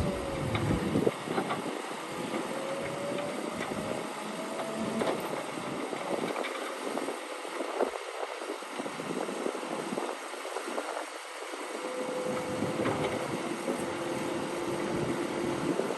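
Bulldozer at work: an engine tone that rises and falls with load, then holds steadier and lower near the end, with scattered clanks.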